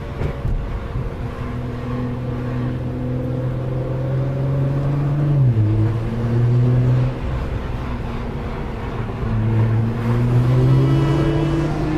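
Nissan GT-R's twin-turbo V6 running under way. Its note holds steady, drops sharply in pitch about five and a half seconds in, then climbs again in the second half.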